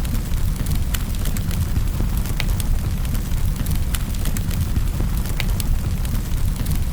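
Wood fire in a fireplace crackling: sharp irregular pops and snaps, several a second, over a steady low rumble.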